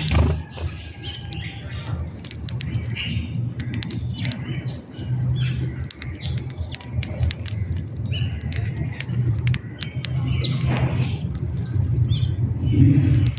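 A mixed flock of feeding birds chirping and squawking in many short, overlapping calls, with some wing flapping, over a low rumble.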